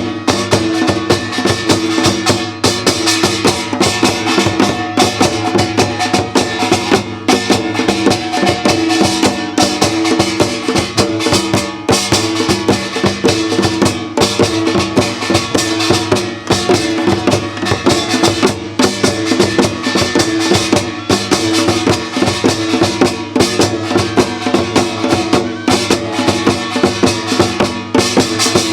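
Korean traditional folk music: dense, fast percussion beats over a sustained melodic line.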